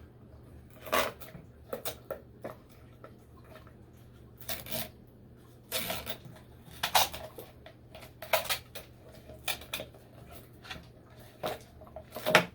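Plastic parts of a humidifier being lifted out and handled: scattered clicks, knocks and light clatter, a dozen or so at irregular intervals, with a few sharper knocks.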